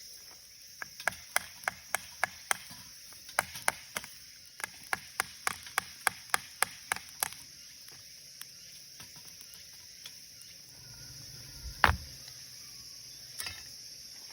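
Firewood being split for a campfire: quick, sharp wooden knocks, about three a second, in runs through the first seven seconds, then a single louder knock near the end.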